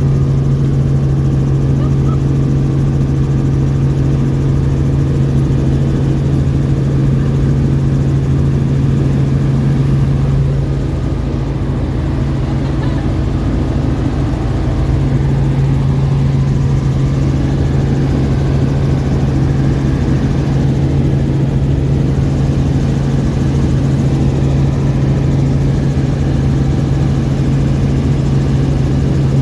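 Helicopter in flight: a loud, steady drone of engine and rotor with a strong low hum.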